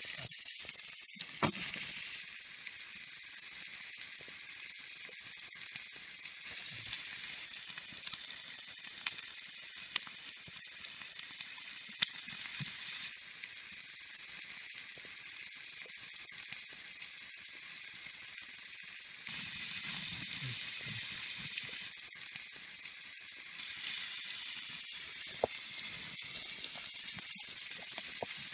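Lamb kokoreç sizzling steadily on a hot tin sheet over a campfire, with scattered sharp pops and crackles throughout.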